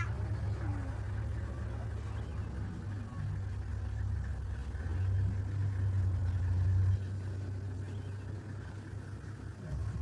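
Vehicle engine idling: a steady low hum that grows louder about halfway through, then drops off abruptly a couple of seconds later.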